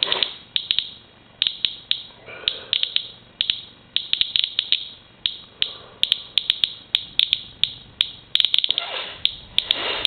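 Inspector Geiger counter clicking irregularly, a few sharp chirps a second at random intervals, each click one detected count. It is counting a rainwater sample whose total runs to about 329 counts per minute, above the usual background.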